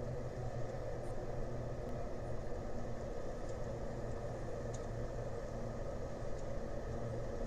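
Steady low hum of an idling engine, even throughout, with a few faint ticks.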